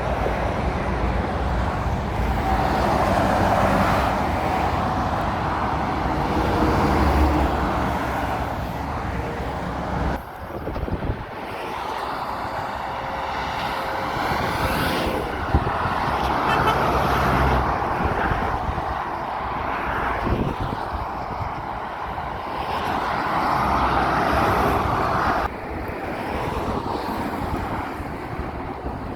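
Road traffic passing close by, heavy trucks and cars, engine and tyre noise swelling and fading as each vehicle goes past.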